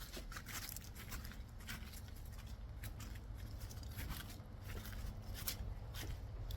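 Footsteps crunching irregularly on a woodland hiking trail, over a low rumble on the microphone.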